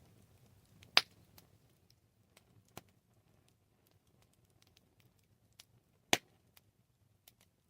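Campfire crackling: scattered sharp pops and snaps of burning wood, two loud ones about a second in and near the end, over a faint low rumble.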